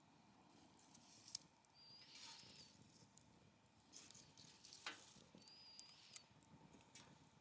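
Wood fire crackling quietly, with a few sharp pops, hissing bursts and two short high whistles of steam escaping from the burning logs.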